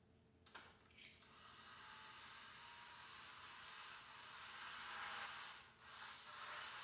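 HO-scale slot car running on the track: its tiny electric motor gives a steady high-pitched whine with hiss, starting about a second in after a couple of small clicks, and dipping briefly about five and a half seconds in.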